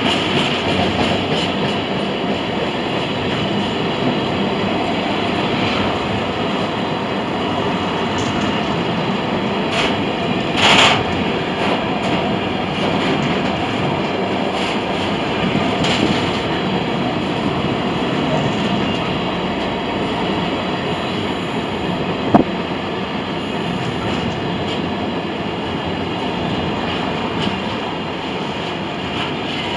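Container flat wagons of a freight train rolling steadily past, wheels running on the rails. There is a brief louder noise about 11 seconds in and a single sharp click about 22 seconds in.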